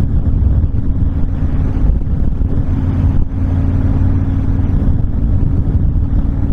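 Honda VTX1300 V-twin engine running steadily at cruising speed, a low rumble mixed with wind noise on the microphone.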